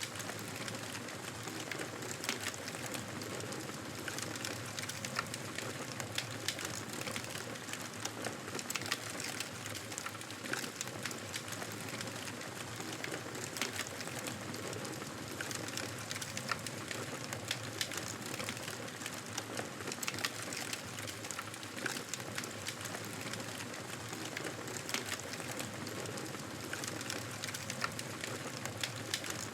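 Wood fire burning in a fireplace, a steady hiss of flames with frequent small irregular crackles and pops.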